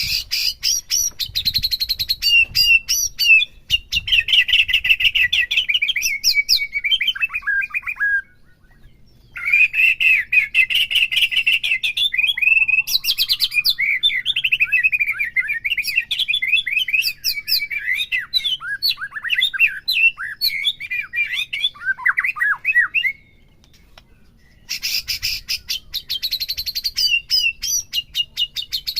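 White-rumped shama (murai batu) singing a loud, fast, varied song of whistles, trills and rapid clicking notes, broken by two short pauses, about eight and twenty-three seconds in.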